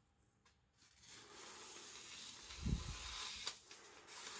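Freshly sharpened aogami-steel gyuto slicing through thin paper: a steady papery hiss that starts about a second in, with a soft low thump near the middle.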